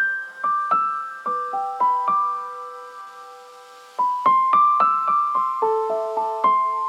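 Slow, gentle piano-like keyboard melody of single struck notes that ring and fade, pausing for about a second and a half midway before continuing.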